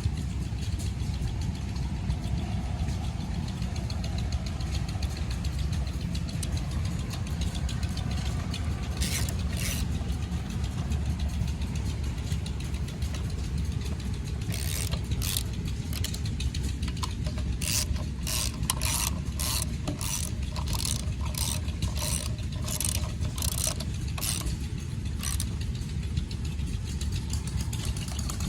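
Single-cylinder Fairbanks-Morse Z Style D "salt block" engine, throttle-governed, running steadily. In the second half a sharp clicking repeats about twice a second.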